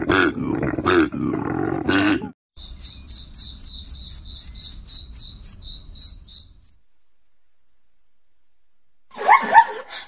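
A koala bellowing in deep, repeated grunts for about two seconds. Then a high insect chirp repeats about four times a second for about four seconds. After a pause, a short burst of animal calls comes near the end.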